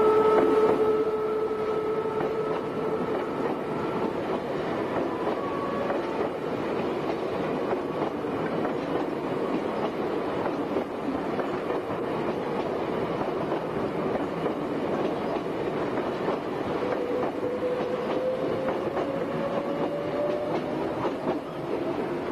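Meitetsu 7700 series electric train passing close by and pulling away, wheels clattering over the rail joints. A steady whine fades out about four seconds in, and a whine rising in pitch comes in near the end.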